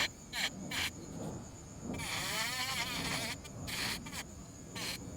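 High-speed rotary carving tool whining steadily, its burr grinding into soft tupelo wood in several short passes and one longer cut of about a second in the middle, where the pitch wavers as it loads.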